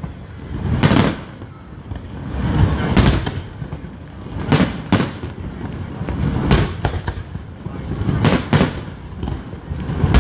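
Fireworks display: aerial shells bursting in a series of loud bangs every second or two, some in quick pairs, each trailing off in a low rumble.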